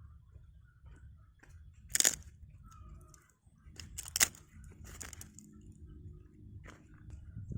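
Crisp cracks and crunches of crispy fried chicken being broken and bitten, with two sharp loud cracks about two and four seconds in and smaller crackles between.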